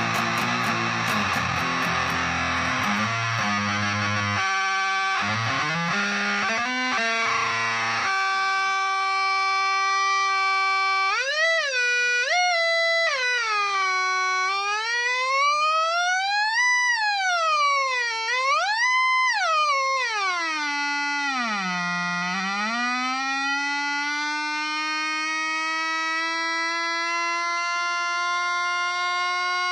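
Electric guitar, a Gibson SG on its neck pickup, through a Zvex Fuzz Factory fuzz pedal into a Roland Cube 30 amp: thick fuzzed playing for the first several seconds, then a single sustained fuzz tone that glides up and down in pitch, swoops low about two-thirds of the way through and slowly climbs again.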